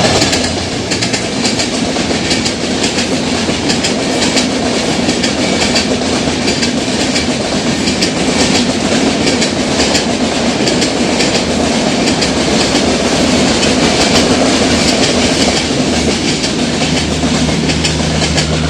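Train running along the track, its wheels clattering over the rail joints in a steady stream of clicks.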